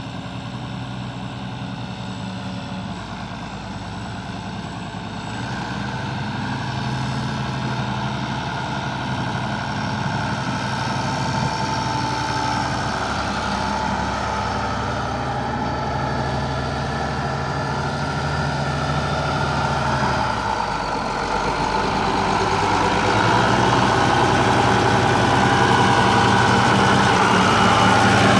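International 1086 tractor's six-cylinder turbo diesel engine running steadily, growing gradually louder.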